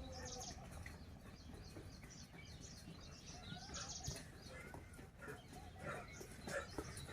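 Faint chirping of birds, many short calls scattered over a low background rumble.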